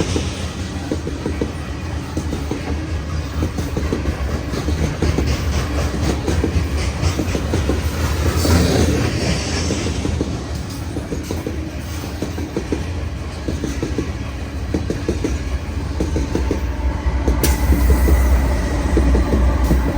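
Train cars rolling past, wheels clicking steadily over rail joints above a continuous low rumble. A faint thin high squeal comes in near the end.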